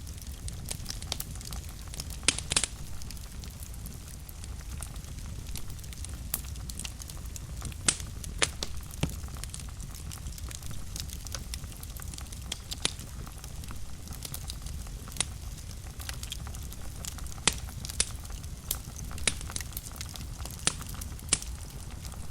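Wood fire burning in a fireplace: a steady low rumble of the flames with irregular sharp crackles and pops, a few of them loud snaps.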